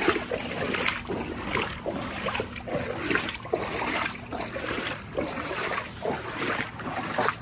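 Footsteps wading through shin- to knee-deep floodwater, each stride splashing, about two a second.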